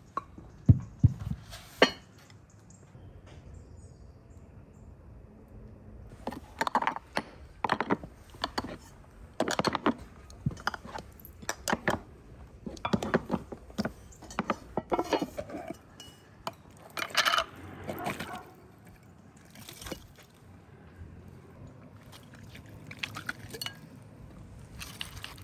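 Tableware clinking and knocking at a meal: a run of short, sharp clinks of dishes, cutlery and glasses, busiest in the middle stretch.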